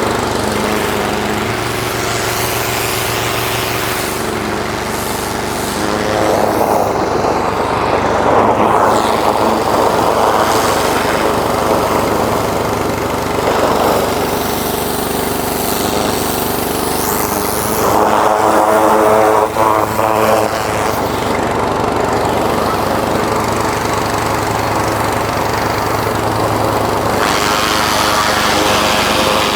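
Small petrol engine of a pressure washer running steadily under load. The hiss of the water jet swells and fades as it is worked over the cement-caked truck.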